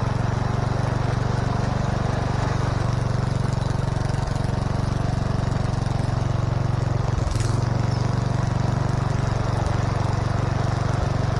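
Small vehicle engine running steadily at an even speed while driving along.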